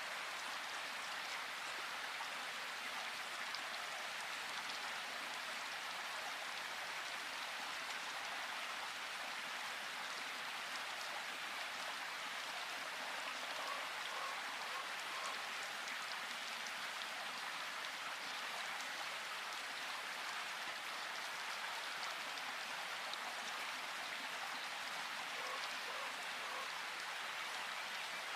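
Steady rain falling, an even patter with no pauses, with a few faint short notes about halfway through and again near the end.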